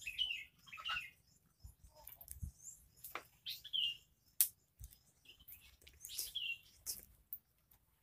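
Short bird chirps come in small groups, mixed with sharp snaps and rustling of twigs and leaves as someone climbs through the branches of a tree.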